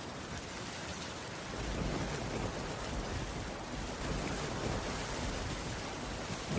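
Steady rain falling on a roof, an even hiss, with a low rumble that comes in about a second and a half in.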